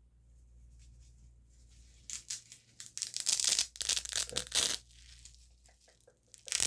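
Close-up ASMR 'grip' sounds: hands gripping and rubbing right at the microphone, making crinkly rustling bursts. It starts faint, picks up about two seconds in and is loudest in the middle, with more bursts near the end.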